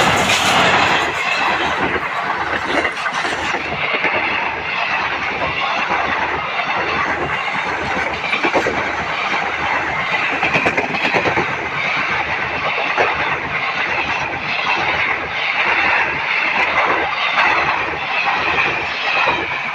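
Passenger coaches of an express train passing at close range just behind its diesel locomotive. A steady rumble of steel wheels on rail, with a rapid clatter of clicks over the rail joints, eases slightly near the end.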